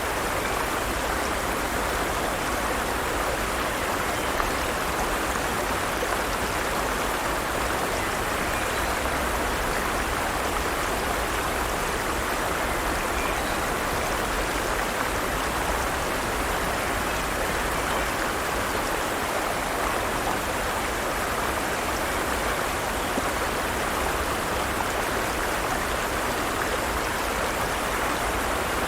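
Forest stream: water running steadily over rocks, an even rushing and splashing with no change.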